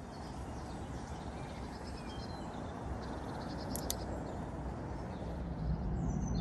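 Small birds chirping and calling over a steady low rumble of outdoor background noise, with a sharp click just before four seconds in.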